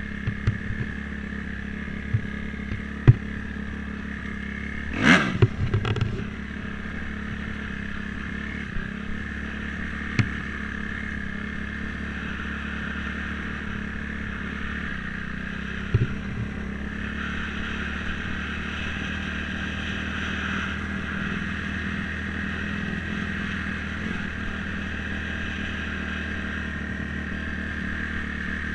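Dirt bike engine running steadily, with a loud clatter about five seconds in and a few light knocks.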